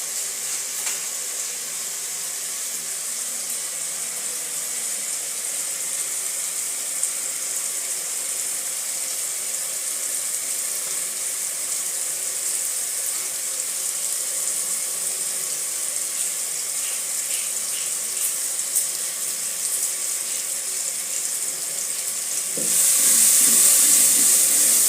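Tomato and onion sauce frying in a pot with added spices: a steady sizzle that turns louder near the end.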